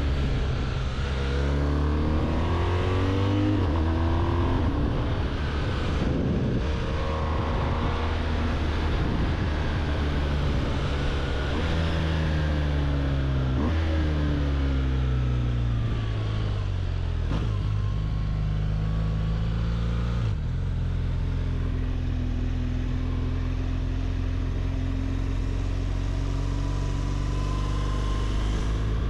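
BMW R1200GS boxer-twin engine under way, its pitch rising and falling repeatedly with throttle and gear changes, then holding steadier at cruise about two-thirds of the way through, with wind rush over it.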